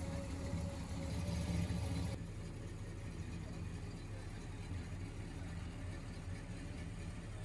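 A car engine idling: a steady low rumble that changes abruptly about two seconds in and then runs on a little quieter.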